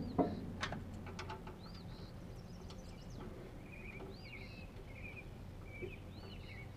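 Small birds chirping, short arched calls repeated every second or so, over a low steady hum, with a few light clicks in the first second and a half.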